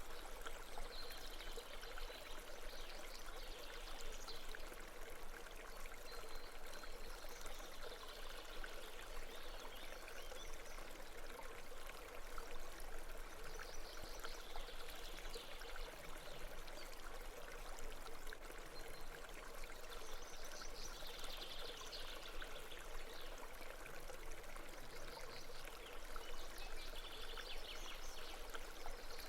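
Babbling brook: running water trickling and splashing steadily, swelling a little every few seconds.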